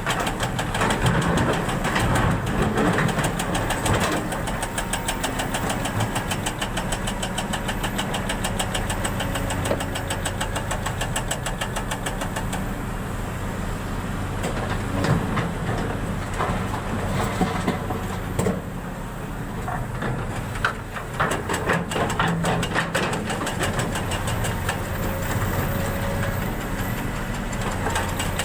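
An engine running steadily, with a rapid, even ticking over a low hum.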